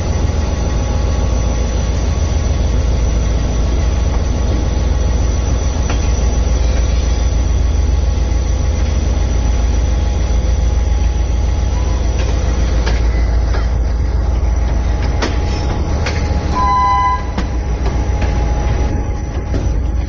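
Shah Latif Express passenger train running on the rails: a steady heavy rumble, with a few sharp clicks in the second half. About seventeen seconds in, a short high pitched tone sounds for under a second.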